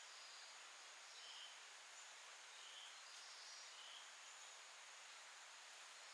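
Faint wild-forest ambience: a soft steady hiss with a thin high steady tone, and short faint chirps recurring about every one to one and a half seconds.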